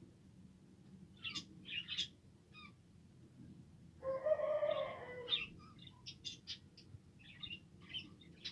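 Pet budgerigars chirping in short high notes, with a louder, lower, drawn-out call about four seconds in, followed by more quick chirps.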